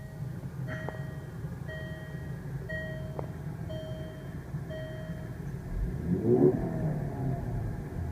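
Range Rover Evoque's 2.0-litre turbocharged four-cylinder engine idling just after start-up, while a cabin warning chime beeps about once a second, six times. About six seconds in, the engine is revved once, its pitch rising and falling.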